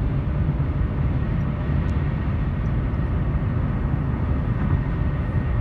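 Steady, loud low rumble with a fainter hiss above it and no distinct events, typical of outdoor noise beside a highway.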